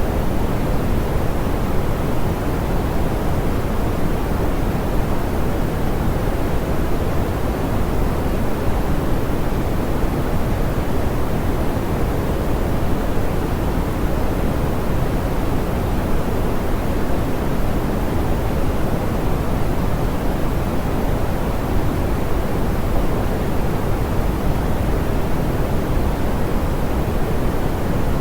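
Steady synthetic pink noise: an even hiss, weighted toward the low end and soft in the highs, with no change or events.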